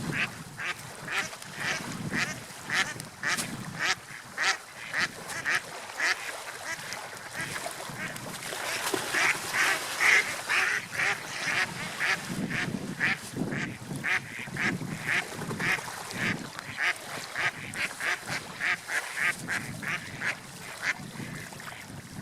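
Gulls calling in a long, rapid series of short, repeated cries, about two or three a second, over the low rush of sea waves and wind.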